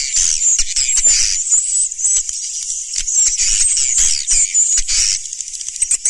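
Swiftlet calls, the lure sound played to draw edible-nest swiftlets into a nesting house: many overlapping high, rapid chirps and twitters with quick sliding notes and ticks.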